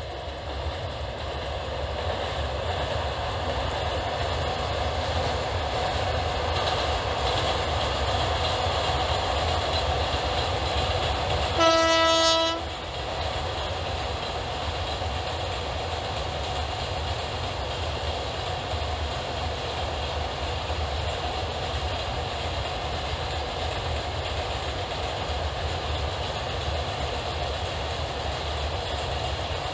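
Freight train of open-top wagons hauled by an electric locomotive rolling over a girder bridge with a steady rumble that grows louder over the first few seconds. About twelve seconds in, the locomotive sounds one horn blast lasting about a second, the loudest moment.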